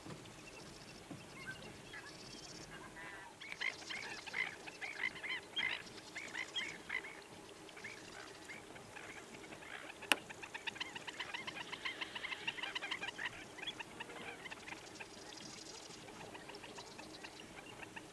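A chorus of marsh birds, many giving short calls at once. The calls come in two busy stretches, with faster high trills above them, and there is a single sharp click about ten seconds in.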